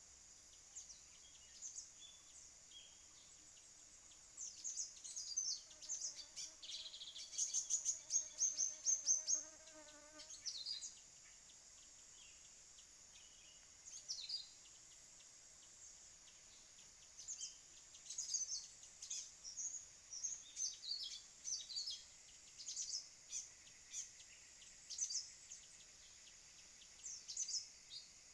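Bird chirps and calls in bursts, strongest about 4–10 s in and again over the last ten seconds, over a steady high-pitched insect drone.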